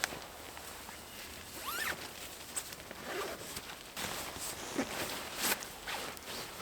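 Irregular rustling and scraping, with a few short clicks and a brief rising scrape near two seconds in.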